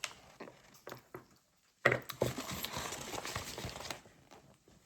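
Paper rustling and small clicks as a collector's checklist and a toy figure are handled, with a dense burst of rustling from about two seconds in that stops about four seconds in.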